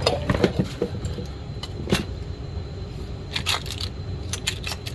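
Small parts clicking and clattering in a parts bin as someone rummages by hand, in irregular clusters of sharp knocks, over a steady low hum.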